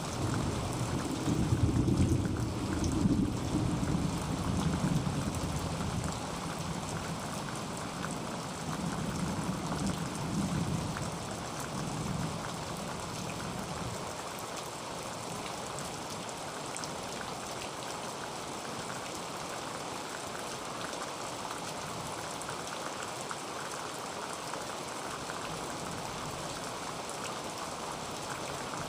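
Heavy rain pattering steadily on a tin roof, with a low rumble of thunder through the first dozen seconds that dies away.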